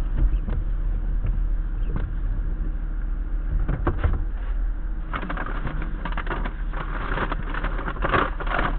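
Car engine idling with a steady low hum, heard from inside the vehicle, with a few clicks and then a dense crackling rustle from about halfway through.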